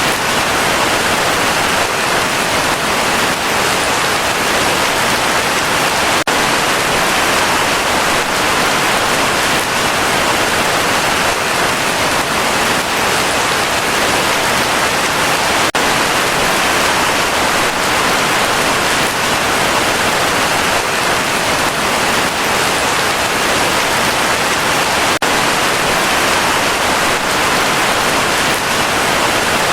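Heavy rain falling steadily: a dense, even hiss of countless drops, with no change in strength.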